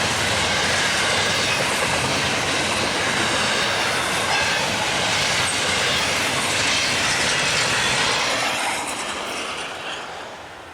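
Freight train cars passing close by, with steel wheels clattering and squealing on the rail. The sound is loud and steady, then falls away over the last two seconds as the end of the train goes by.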